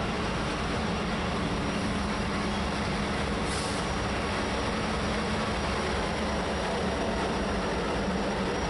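Several Norfolk Southern diesel-electric locomotives passing close by at the head of a double-stack container train: a steady engine drone with rail noise, no horn.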